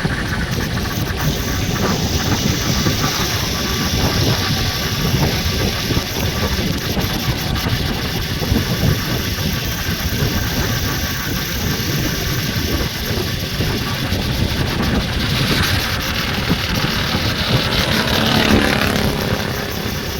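A vehicle running, with steady loud engine and rumbling noise.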